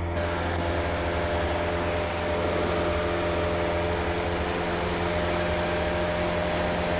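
Cessna 152's four-cylinder Lycoming O-235 engine and propeller running steadily at climb power just after takeoff, heard from inside the cockpit as an even drone.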